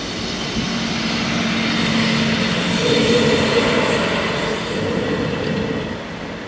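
A Koleje Mazowieckie passenger railcar passes over a level crossing. Its wheel and engine noise swells to a peak about halfway through and eases off near the end.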